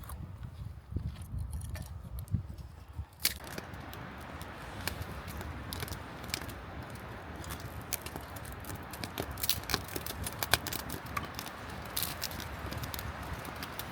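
Wood fire crackling: many sharp pops and clicks over a steady hiss, setting in suddenly about three seconds in after a few low thumps.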